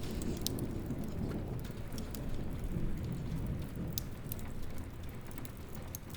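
Steady rain with a low rolling rumble of thunder that eases off about halfway through, and scattered sharp crackles from a wood fire.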